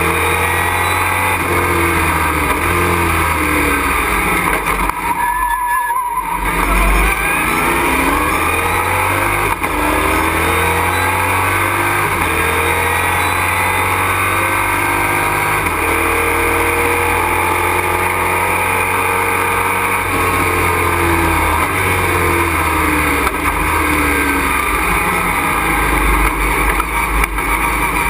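Race truck engine heard from inside the cockpit, running hard at racing speed, its revs climbing and dropping again and again through gear changes, with a brief lift off the throttle about five to six seconds in.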